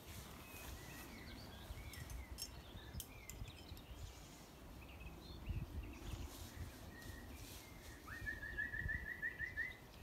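Small songbirds chirping, with a quick run of about six repeated notes a second near the end, over a low gusting rumble of wind on the microphone.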